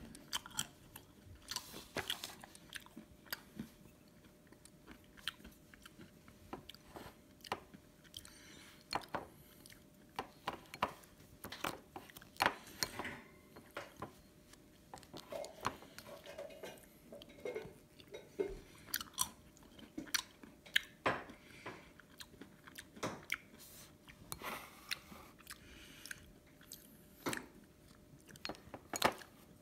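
Close-miked eating of ice cream with chocolate syrup and roasted almonds: chewing with irregular crisp mouth clicks and crunches.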